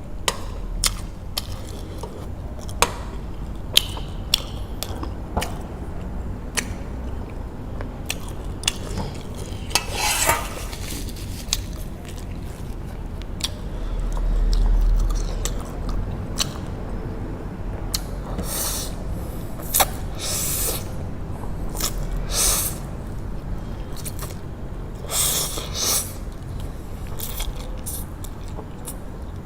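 Eating Korean spicy noodles: utensils clicking and scraping against the bowl, chewing, and several short slurps of noodles. A low rumble comes about halfway through.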